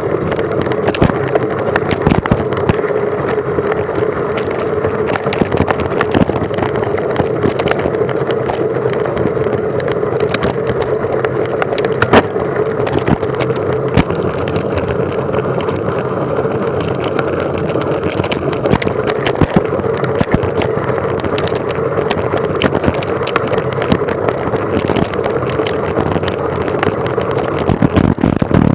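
Steady rumbling ride noise with a constant drone, overlaid with frequent sharp clicks and rattling knocks.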